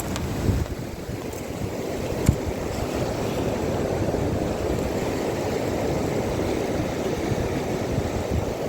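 Steady rush of wind and sea water, with a single sharp click about two seconds in.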